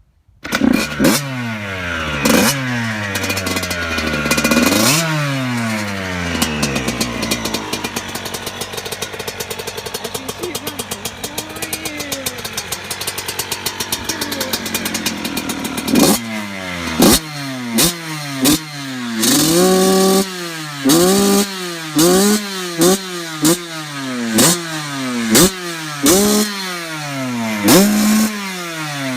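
2014 Yamaha YZ85's 85cc two-stroke single-cylinder engine, on its stock exhaust, starting up about half a second in and revved a few times. It then idles for about ten seconds, and from about halfway through it is blipped hard and repeatedly, about one sharp rev a second.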